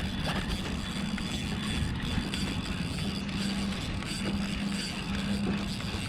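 Steady low hum of a motorboat engine on the water, over a constant low rumble of wind and water.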